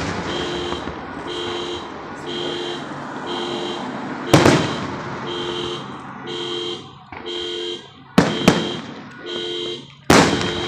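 Fireworks shells bursting with sharp bangs, one about four seconds in, a quick pair around eight seconds and another near the end. An electronic alarm beeps steadily through it, about one and a half beeps a second.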